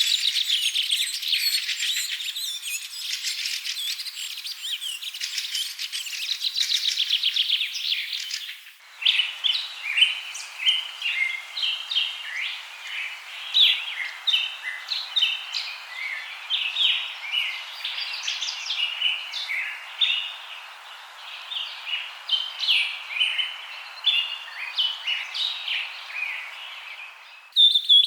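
Wild tropical forest birds chirping and calling. A dense, rapid chatter of high notes switches abruptly about nine seconds in to many short, varied chirps over a soft hiss.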